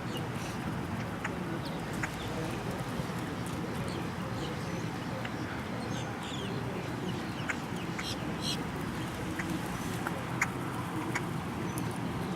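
A flock of birds giving short, scattered chirps and clicks over a steady low background rumble.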